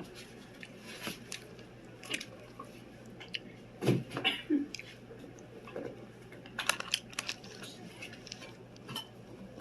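Scattered small clicks and crunches from handling crackers and a tuna salad kit.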